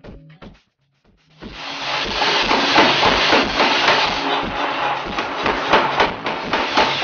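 Pneumatic forging hammer working a kitchen-knife blank: after a couple of short knocks, from about a second and a half in it pounds in quick repeated blows amid a loud hiss of air.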